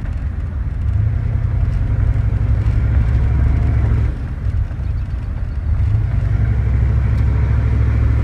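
The 6.5-litre Detroit turbo diesel V8 of a 1993 Chevy 1500 running while the truck is driven, heard from inside the cab as a loud, deep, steady drone. The drone eases off near the start and again from about four to six seconds in, then comes back.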